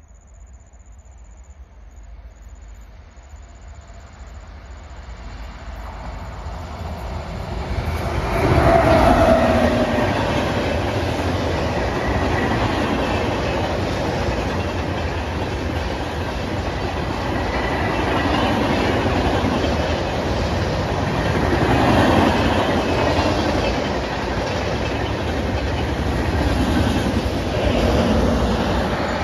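Indian Railways passenger express hauled by a WAP-7 electric locomotive, approaching and then passing close at speed. It rises gradually for about eight seconds, jumps in level as the train reaches the spot, and then the coaches' wheels rumble and clatter over the rails in a loud, steady run that swells a couple of times.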